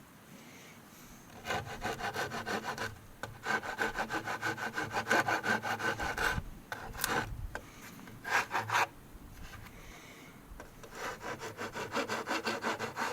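Wood being smoothed by hand with rapid back-and-forth strokes, in several runs separated by short pauses.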